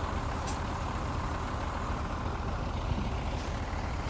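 Mitsubishi G2 bulldozer's diesel engine running steadily with a deep, even sound, and one brief sharp click about half a second in.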